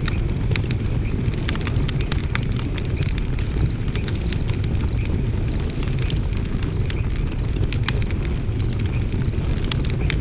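Wood fire burning in a fire pit: a steady low rumble of flames with frequent sharp crackles and pops. A short high chirp repeats about twice a second behind it.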